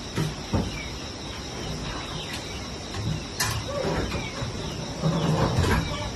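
A steady, high-pitched insect chorus, with a few short bird chirps, some sharp knocks and louder rustling near the end.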